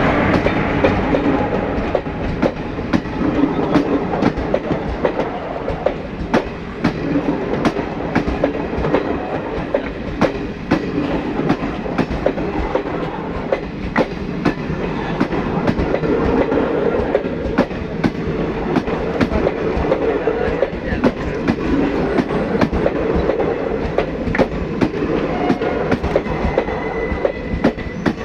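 Passenger train coaches rolling past, their wheels clattering over rail joints in a steady run of clicks above a continuous rumble.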